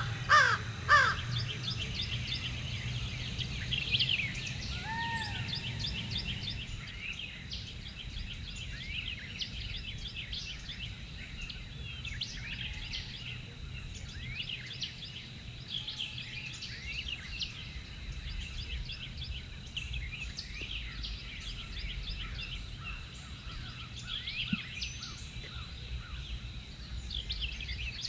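A crow cawing a few times at the very start, then a chorus of small songbirds chirping and singing.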